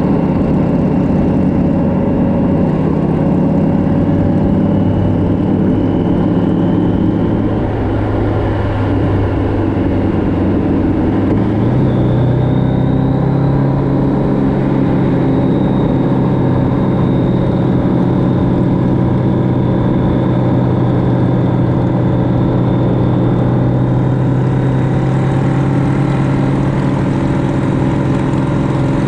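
Motorcycle engine running steadily at road speed, with road and wind noise. About ten seconds in, the engine note shifts, then holds steady again.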